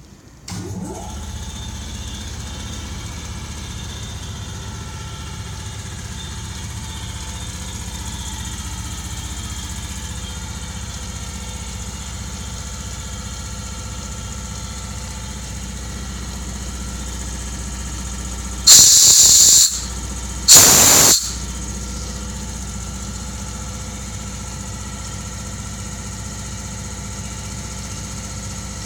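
Hitachi POD-1.5MA5 oil-free package compressor with built-in air dryer starting up about half a second in, then running with a steady hum. Two loud bursts of compressed air hissing out come about two-thirds of the way through, one about a second long and a shorter one after it.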